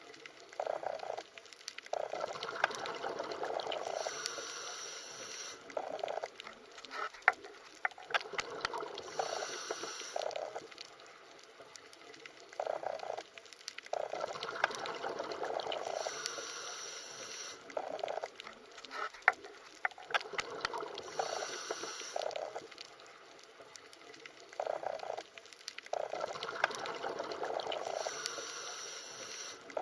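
Underwater water sounds: swells of bubbling, gurgling water that recur about every six seconds, with short hissy patches and scattered sharp clicks between them.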